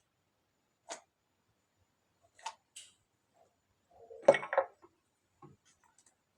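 A few short, scattered clicks and knocks of handling in a quiet room, the loudest a brief cluster of knocks about four seconds in.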